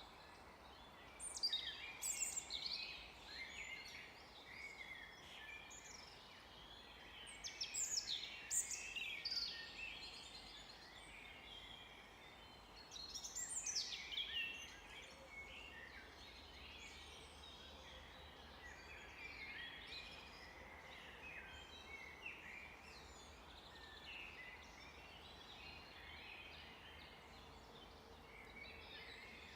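Forest birds singing: three louder bouts of quick, high, falling notes, about a second in, around eight seconds in and around fourteen seconds in, with fainter chirping from other birds throughout over a soft background hiss.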